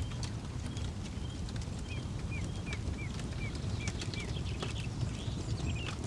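Campfire crackling with scattered sharp pops over a steady low rumble, while a bird calls a run of about seven short down-slurred notes, roughly two a second, in the middle.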